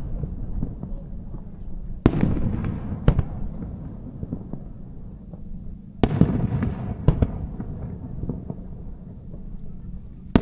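Aerial fireworks bursting: two loud bangs, about two seconds and six seconds in, each followed by a rumbling echo with scattered smaller crackling pops, and another bang right at the end.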